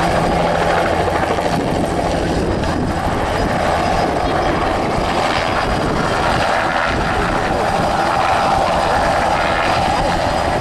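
Agusta Bell 206B helicopter flying, its turbine engine and main rotor making a steady, loud noise.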